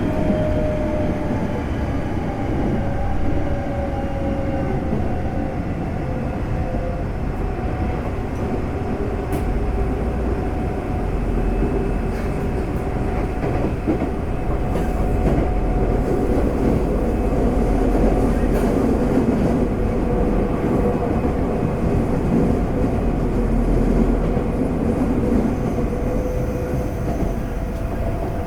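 Interior running noise of a Semboku Rapid Railway 5000 series electric train (Hitachi GTO VVVF inverter) travelling at speed: steady wheel and rail noise with motor whine, the whine sliding down in pitch over the first few seconds. The air conditioning is running.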